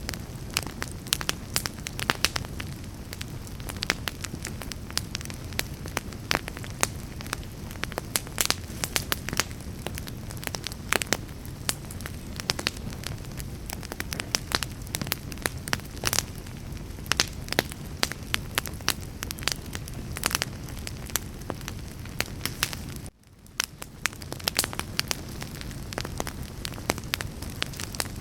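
Wood fire in a fireplace crackling: a steady low rumble of flames with frequent sharp, irregular pops and snaps. About three-quarters of the way through, the sound cuts out abruptly for an instant and fades back in.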